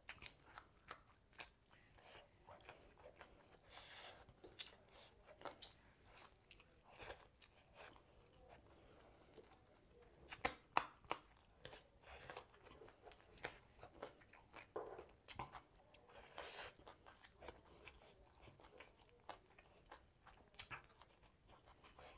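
A person eating close to the microphone: steady chewing with scattered crunches and short clicks, the loudest cluster of crunches about halfway through.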